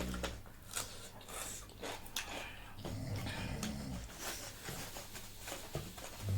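Close-up eating sounds: noodles slurped and food chewed, with many short wet mouth clicks and smacks.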